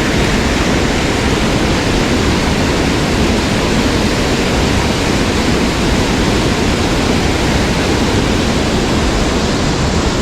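Steady, loud rush of fast-flowing water in a mountain stream.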